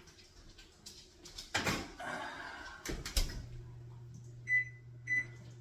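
Oven door and baking tray knocking as the chicken goes in, then a low steady hum from the oven, and two short high electronic beeps from its keypad near the end as the 30-minute timer is set.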